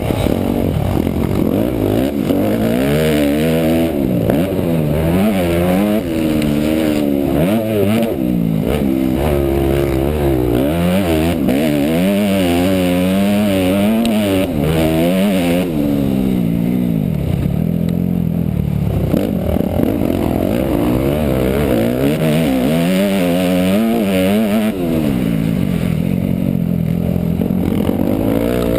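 Motocross bike engine revving hard, its pitch rising and falling over and over as the throttle opens and closes.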